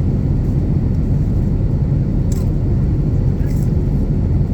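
Steady low rumble of an Airbus A350-900 heard from inside the cabin: its Rolls-Royce Trent XWB engines and airflow, with a couple of faint short ticks.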